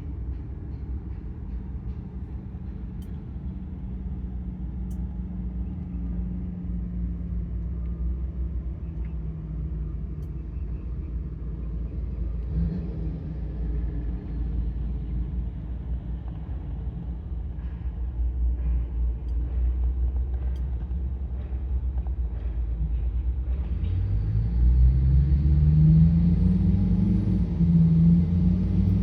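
An engine rumbling steadily at low pitch, then speeding up and growing louder near the end, its pitch rising.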